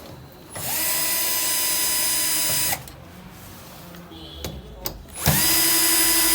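Power drill run twice, each time for about two seconds: the motor whines up to speed, holds a steady pitch and cuts off abruptly.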